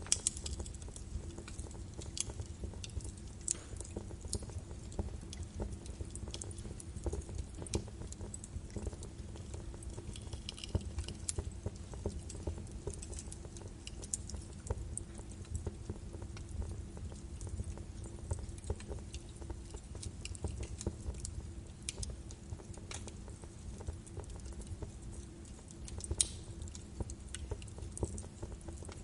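Birch logs burning in a fireplace, crackling with frequent irregular sharp pops over a low rumble of flame, with one louder pop near the end.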